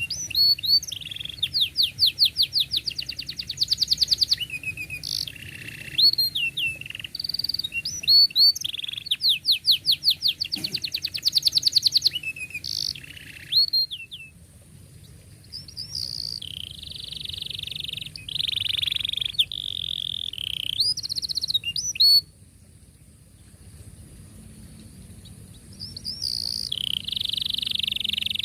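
Domestic canary in full song: fast trains of rapidly repeated chirping notes and upswept whistles, then a dense rolling trill. The song breaks off for a few seconds about three-quarters through and picks up again near the end.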